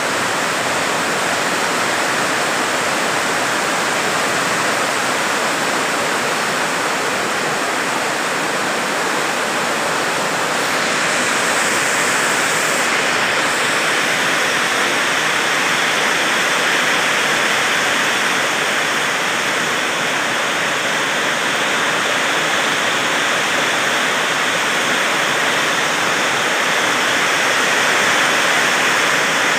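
Heavy rain pouring down steadily: a loud, dense, even hiss.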